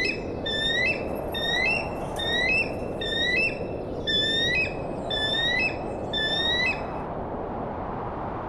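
A bird repeating a short, rising whistled call about once a second, over a steady background hiss; the calls stop about 7 seconds in.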